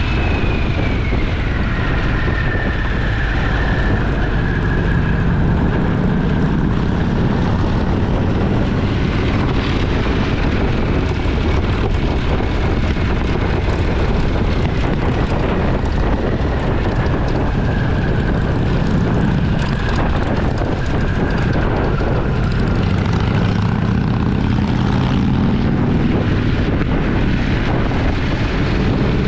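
Motorcycle engine running under way, with wind rush; its pitch falls and rises with the throttle.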